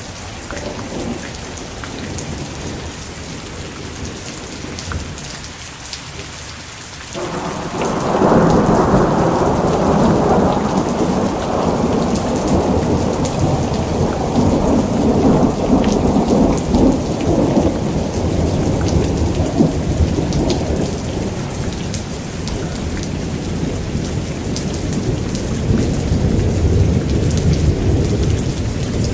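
Steady rain with rolling thunder: a heavy rumble breaks in suddenly about seven seconds in and slowly fades over more than ten seconds, then swells again near the end.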